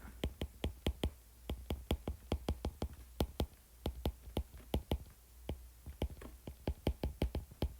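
A quick, uneven series of light, sharp clicks, several a second, over a low steady hum.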